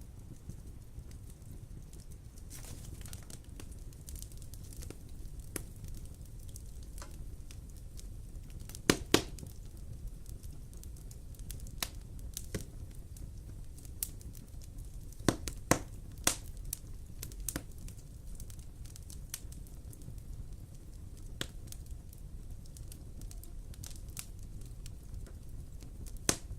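Wood fire burning in a fireplace: a steady low rumble with scattered sharp crackles and pops. The loudest pops come as a pair about nine seconds in and a few more around fifteen to sixteen seconds.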